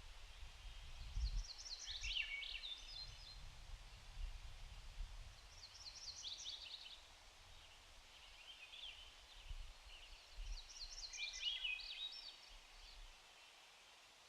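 A small songbird sings short phrases of quick descending notes, four times over a few seconds, over a faint steady hiss. An uneven low rumble underneath fades out near the end.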